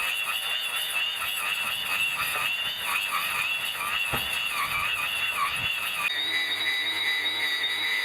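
Electric grass trimmer's motor whining as it cuts grass, its pitch wobbling up and down with the load, then settling to a steady higher tone about six seconds in. The recording is played back at high speed.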